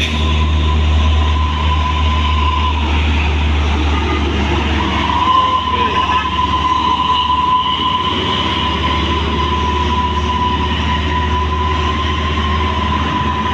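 A heavy truck engine running loud and steady in passing traffic: a deep rumble with a steady high whine over it.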